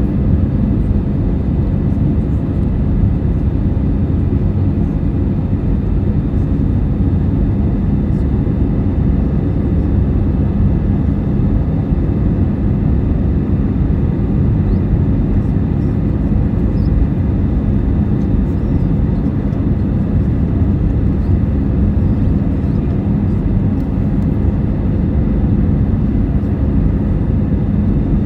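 Airbus A319 cabin noise in flight: the steady rumble of the jet engines and airflow, with a constant low hum.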